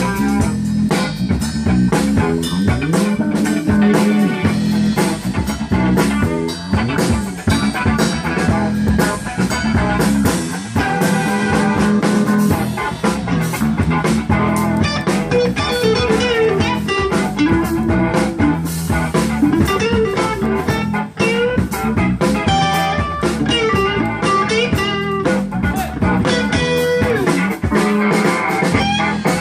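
Live blues-rock band playing an instrumental passage, electric guitar over drum kit and bass. In the middle a lead guitar line bends its notes up and down.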